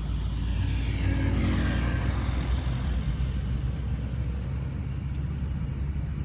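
A motor vehicle passing over a steady low rumble, its sound swelling about a second in and then dropping in pitch as it fades away.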